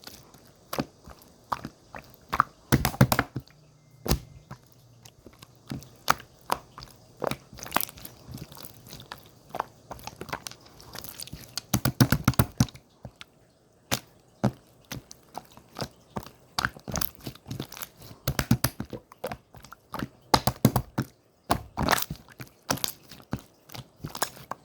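Slime being squished and pressed by hand, giving sharp irregular clicks and pops, sometimes singly and sometimes in quick clusters.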